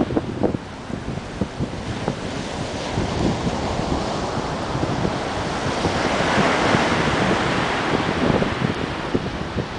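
Ocean surf breaking and washing up the beach, with a wave swelling louder about two-thirds of the way through. Wind buffets the microphone throughout.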